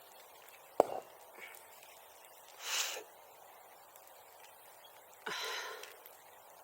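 A sharp click about a second in, then a short scraping hiss near the middle and a longer scraping hiss with a sudden start near the end, like a safety match struck on its box and flaring.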